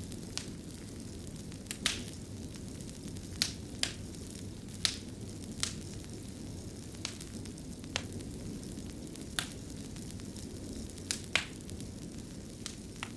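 Wood fire crackling in a stone fireplace: a steady low rumble of burning with sharp pops and snaps at irregular intervals, roughly one a second, a few of them louder than the rest.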